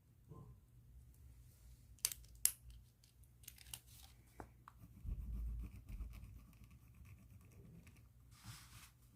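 A pen in a plastic bag being handled and scratched on paper. There are two sharp clicks about two seconds in, a dull thump around the middle, and scratchy rubbing and rustling through the rest.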